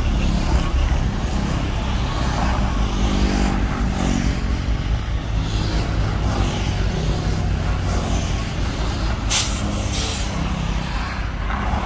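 Heavy dump truck diesel engine running steadily, with two short bursts of air hiss about nine and ten seconds in.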